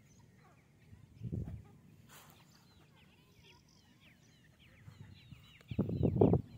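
Partridge chicks peeping: a quick run of short, high, falling peeps that starts a couple of seconds in. A low, louder burst comes about a second in and again near the end.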